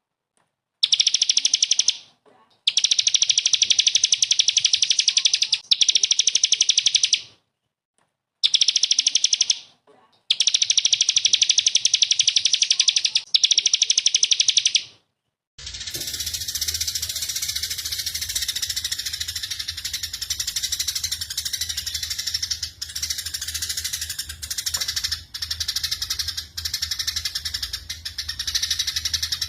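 Small songbird's rapid-fire trill, known as 'tembakan', in four long bursts of a few seconds each with short gaps. About halfway it cuts to a different recording of continuous high twittering song, with a low hum under it.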